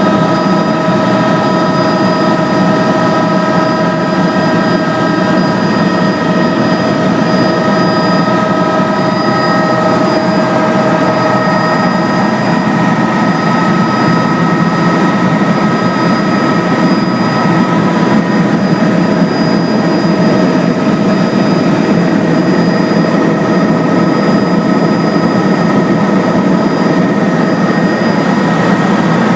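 Helicopter in steady flight, heard from inside the cabin: a constant loud rumble of engine and rotor with several steady high-pitched whines over it, unchanging throughout.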